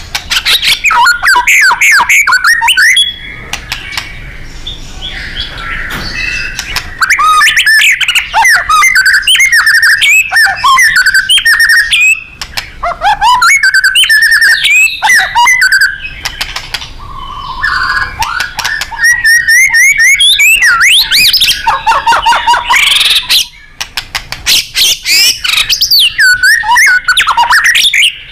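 White-rumped shama (murai batu) singing loudly in long bursts of varied whistles, quick rising and falling glides and rapid trilled, chattering notes, with short pauses between the bursts.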